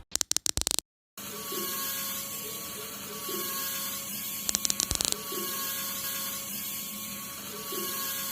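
Small electric motor whirring steadily at a low level, with a brief burst of rapid clicking near the middle.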